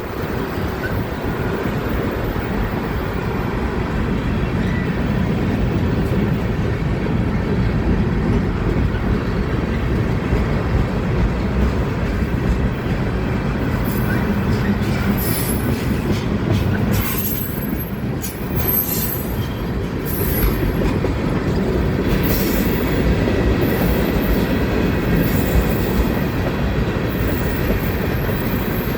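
Manifest freight train's cars rolling past in a steady rumble, with the clickety-clack of wheels over rail joints and a high, intermittent wheel squeal from about halfway through.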